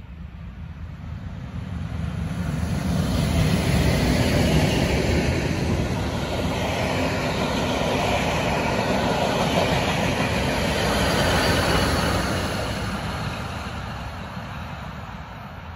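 A passenger train hauled by Swiss electric locomotives passing close by: the rolling of the coaches' wheels on the rails builds over the first few seconds, holds steady while the carriages go by, and fades away near the end.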